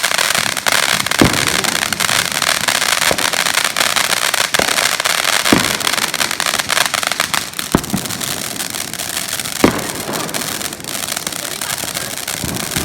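Fireworks crackling densely, with four sharper bangs among them. The crackle thins out about two-thirds of the way through.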